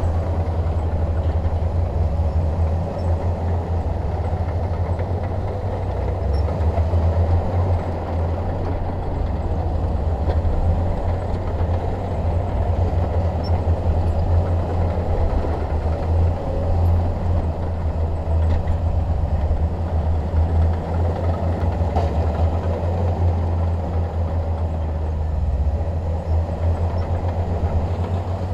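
Diesel engine of a Shantui DH17 bulldozer running steadily under load, with a deep, continuous rumble.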